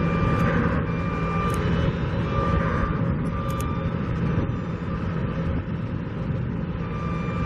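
A construction vehicle's reversing alarm beeping about once a second over the steady low hum of a running diesel engine. The beeps pause about four seconds in and start again near the end.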